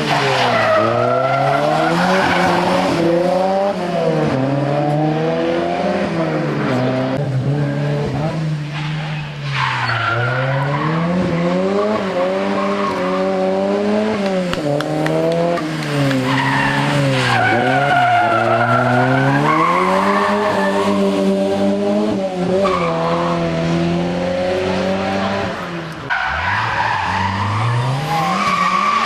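Rally car engine under hard driving, its pitch climbing and dropping over and over as it accelerates and slows, with tyre squeal at times.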